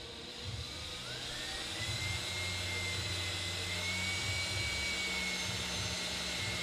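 A small electric power tool's motor running steadily, its whine climbing in pitch about a second in and then holding level.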